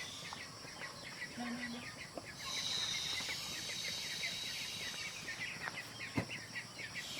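Domestic chickens clucking, with many short chirps repeating throughout. A high steady hiss, the loudest sound here, runs for about two seconds in the middle.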